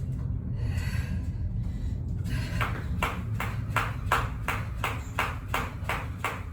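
Jump rope skipping: after a pause of about two seconds, a regular sharp slap of rope and feet on the floor starts up and keeps going at about three a second.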